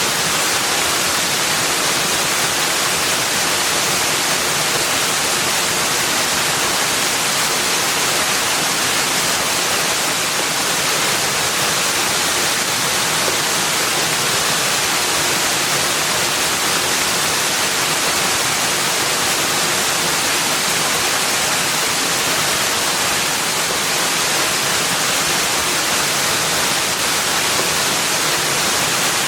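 Running water rushing steadily: an even, unbroken hiss, strongest in the high range.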